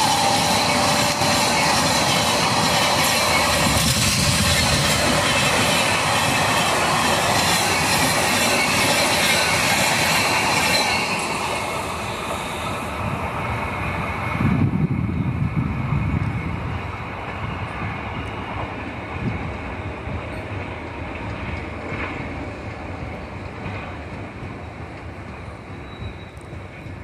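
Express passenger train coaches rushing past at speed, wheels rattling loudly on the rails. The noise cuts off sharply about eleven seconds in as the last coach goes by, then fades away, with a short low rumble near the middle.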